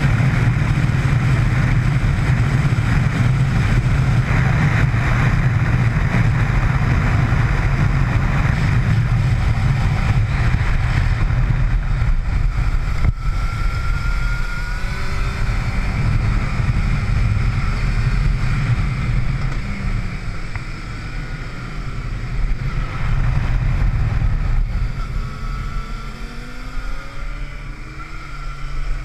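Motorcycle engine running hard while lapping a race track, heard onboard under heavy wind rush on the camera microphone. In the second half the engine note rises and falls as the rider works the throttle and gears, and the sound eases a little near the end.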